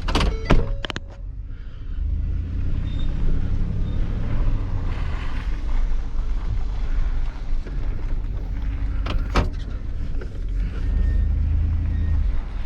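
Plow truck's engine running with a steady low rumble that swells twice, with a few sharp knocks in the first second and another about nine seconds in.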